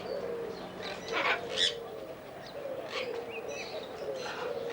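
Birds calling in aviaries: a few sharp, loud calls a little over a second in and brief chirps later, over a continuous low wavering call.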